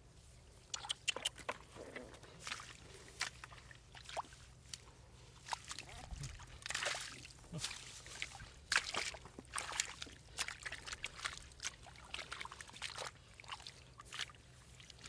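Water splashing and sloshing in many short, irregular bursts.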